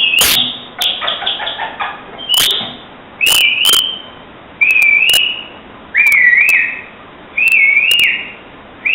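A man imitating a bird call by whistling through a light plastic film: a series of short, high, warbling notes that dip and then rise, about one every second and a half, with sharp clicks between them and a quick run of clicks about a second in.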